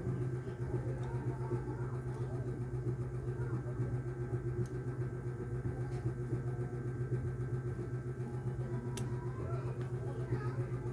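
A steady low mechanical hum, with a few light clicks about one, two, five and nine seconds in, and faint voices underneath.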